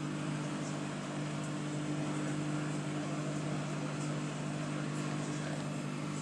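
A steady low mechanical hum, with a few faint small clicks above it.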